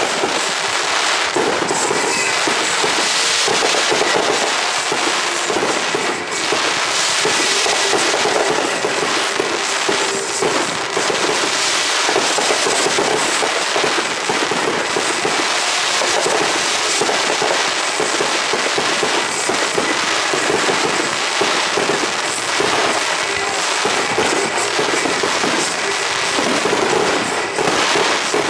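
Fireworks finale barrage: consumer cakes and mortars firing nonstop, with rapid overlapping bangs and crackle and no pause.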